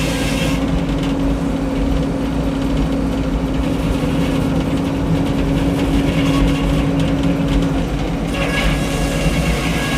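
Frick 01-C circular sawmill running, with a steady drone from its power unit and spinning blade. The higher hiss drops away about half a second in and comes back about eight seconds in.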